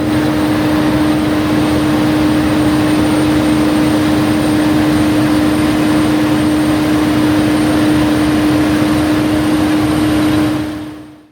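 Large harvest machinery running steadily in the field, a dense engine and machine noise with a constant hum through it. It fades in at the start and fades out near the end.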